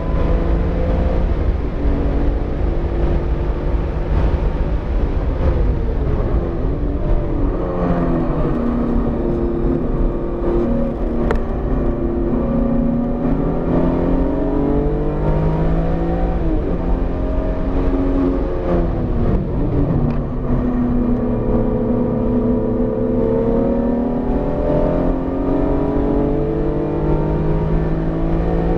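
BMW E46 M3's S54 straight-six, a freshly built engine still in its break-in, being driven hard on a race track. The engine note climbs and drops back several times as the car accelerates, shifts and slows for corners, with a longer steady climb in the second half. A sharp click comes about a third of the way in.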